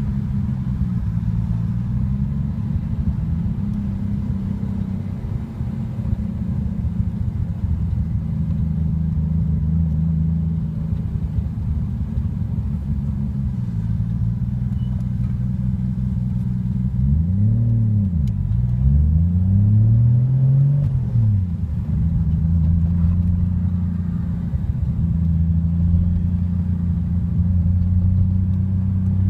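Nissan Skyline R33 GTST's turbocharged straight-six, heard from inside the cabin, running at low revs in light traffic. About two-thirds of the way through, the revs rise and fall twice, then settle, and they start to climb again near the end.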